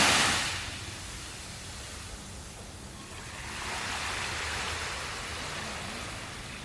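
Ocean surf washing ashore: a wave's rush fading away in the first second, then a gentler swell of surf a few seconds later.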